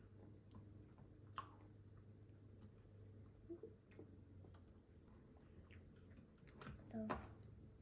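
Quiet eating sounds: faint chewing with a few soft clicks and smacks as prawns are eaten, the loudest cluster about seven seconds in.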